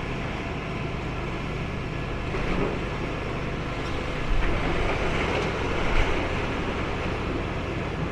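Demolition machine's diesel engine running steadily on the grab, with three louder surges of rumbling about two and a half, four and six seconds in.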